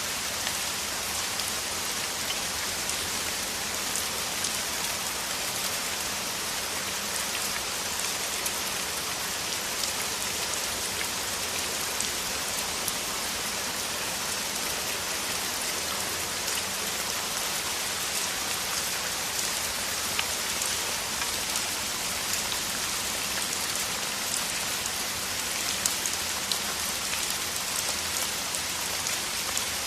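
A downpour of rain falling steadily, a dense even hiss with individual drops ticking through it.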